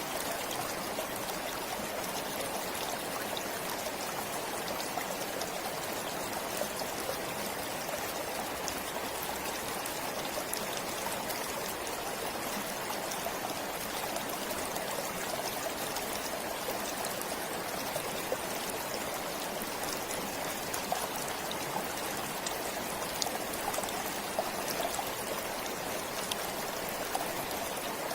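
Forest stream flowing steadily over rocks, a continuous rushing and trickling of water with small scattered splashes.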